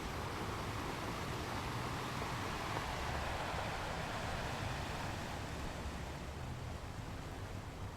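Ocean waves washing onto a beach: a wash of surf noise that swells a couple of seconds in and slowly fades away.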